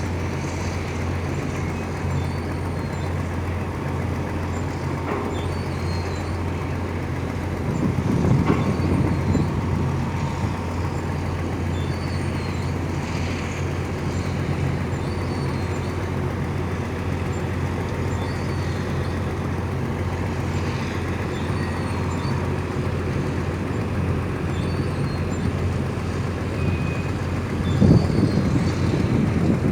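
Steady low drone of a tugboat's diesel engine running during tug-assist work. A louder rumbling swell comes about eight seconds in and again near the end.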